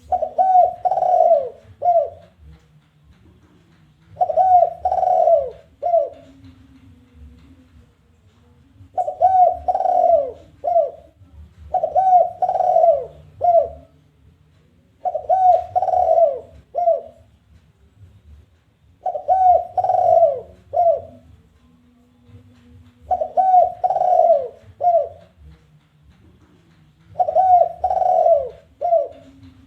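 Spotted dove giving its territorial challenge call: a phrase of two or three coos ending in a short clipped note, repeated eight times at intervals of about three to four seconds.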